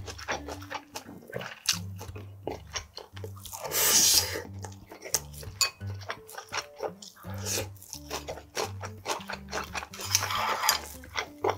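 Close-up chewing and crunching of a mouthful of food, with many small wet bites and crunches, over background music with a repeating low bass pattern. A brief louder rushing noise comes about four seconds in.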